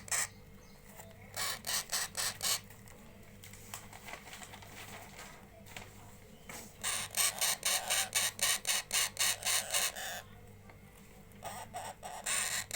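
Baby parrot calling in bouts of rapid harsh squawks, about five a second, three runs of them separated by short pauses.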